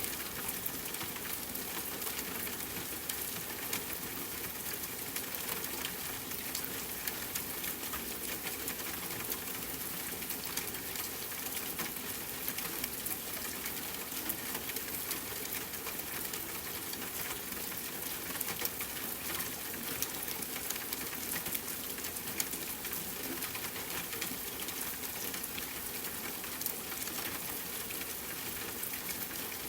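Steady rain pattering on tent fabric, mixed with the crackle of a campfire: a dense, even stream of small ticks and pops over a constant hiss.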